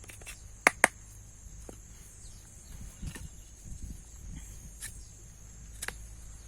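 Steady high-pitched insect buzz, like crickets, with two sharp clicks in quick succession just under a second in, then soft rustling and a few fainter clicks.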